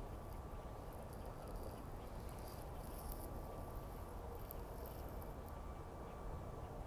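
Steady outdoor background rumble with faint, high ticking sounds scattered through the middle.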